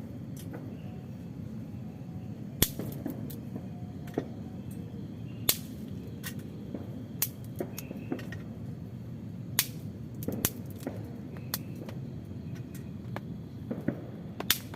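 Water drops from rain tapping irregularly on a tent or tarp, as single sharp ticks a second or so apart, some louder than others, over a steady low background rumble.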